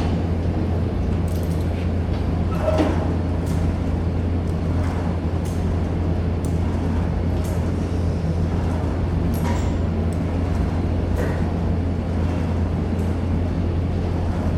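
Steady low mechanical hum with scattered short clicks and knocks from gym equipment in use, a few of them louder, near the start and about three seconds in.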